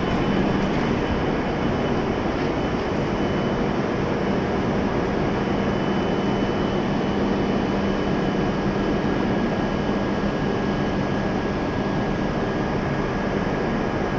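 Stationary E7-series Shinkansen train humming at the platform: a steady whir and drone from its onboard equipment, with a low hum and fainter higher whines held constant throughout.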